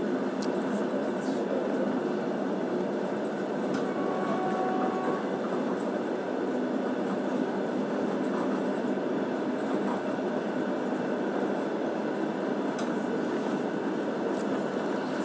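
Passenger train running along the track, heard from inside the carriage: a steady rumble of wheels and rails.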